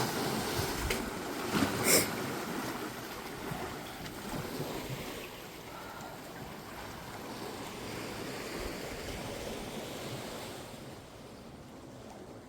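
Ocean surf washing on a beach, with wind buffeting the microphone. There is a sharp knock about two seconds in, and the surf grows quieter near the end.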